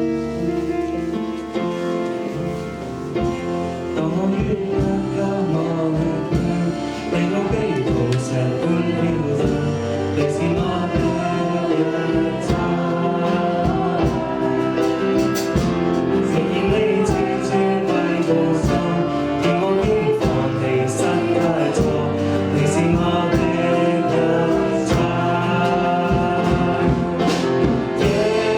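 Church worship song: singing with instrumental accompaniment, growing fuller and louder about four seconds in.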